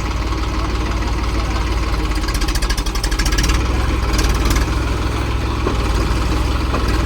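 Tractor's diesel engine idling steadily, with bursts of rapid clattering about two seconds in and again around four seconds.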